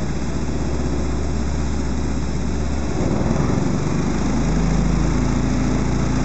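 The Buckler DD2's Ford 1172 four-cylinder sidevalve engine running. About halfway through, the revs rise and hold higher, then drop back near the end.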